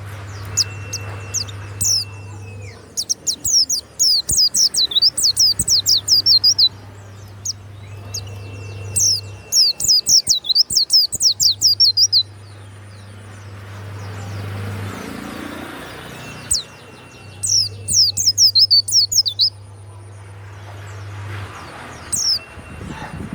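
White-eye (pleci) singing loudly in rapid bursts of high, sweeping chirps: three runs of a few seconds each and a short one near the end, over a steady low hum.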